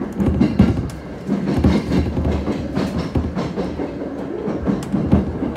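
Train running at speed, heard from inside the passenger car: a steady low rumble with the wheels clacking irregularly on the rails.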